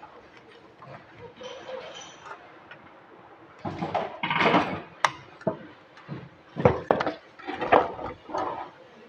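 Irregular metal clinks, knocks and clatter of hand tools and engine parts being handled during engine assembly, busiest in the second half.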